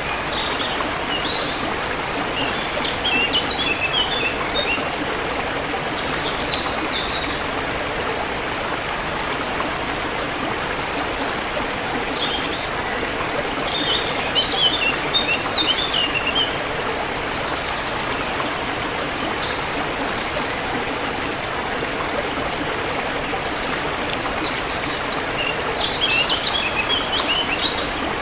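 A forest stream running steadily, with songbirds breaking in every few seconds with short bursts of quick, high chirping notes.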